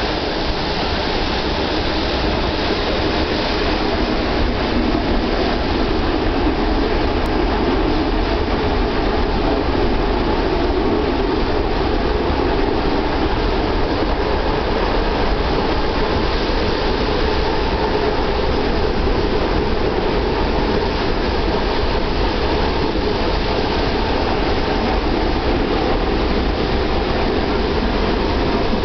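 Passenger train running, heard from inside the carriage: a steady, even noise of the moving train.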